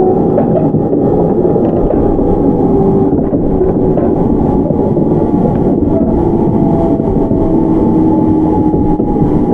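Onboard running sound of a JR 701-series electric train refurbished with Mitsubishi IGBT inverter control: a steady rumble of wheels on rail. Over it runs a faint whine from the drive that slowly falls in pitch as the train slows.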